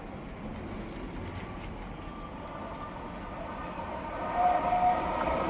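An electric passenger train approaches along the line, its rumble and rail noise growing steadily louder. A short high steady tone sounds about four and a half seconds in.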